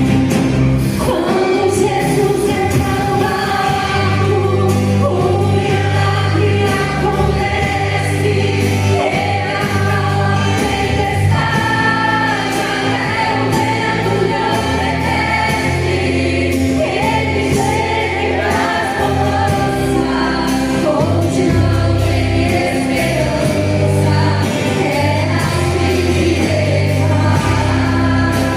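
A Christian worship song: voices singing together over instrumental backing with long held bass notes.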